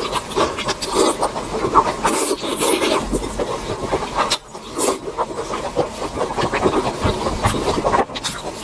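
Close-miked eating sounds: a person chewing food quickly, a dense irregular run of wet clicks and smacks, with a short lull about four and a half seconds in.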